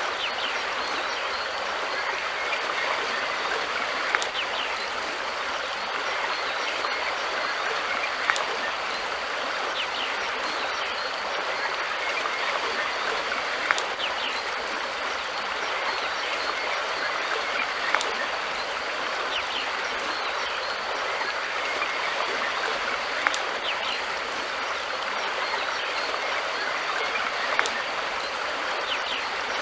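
River water flowing steadily, an even rushing with sharp clicks every four to five seconds.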